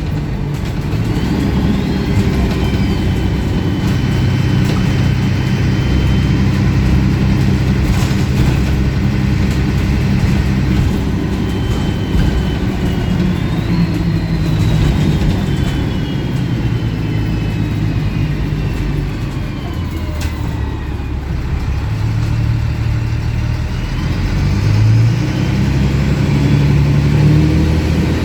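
A MAN 18.220 bus's diesel engine running loud, heard from on board, with an unusually loud exhaust. The engine note shifts up and down in steps as the bus pulls away and changes gear, climbing again near the end, with a faint rising and falling whine above it.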